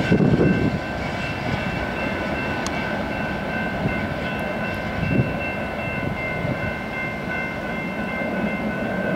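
Loaded grain train rolling past with a diesel locomotive as its rear distributed-power unit, moving away: a steady rumble of wheels on rail with several high steady tones over it, louder briefly at the start.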